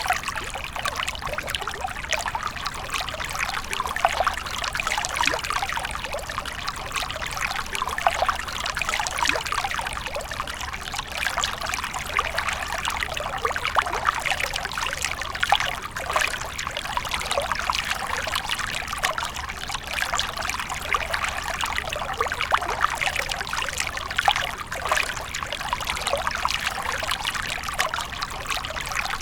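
Fountain water trickling and splashing steadily, a continuous rippling wash of falling water.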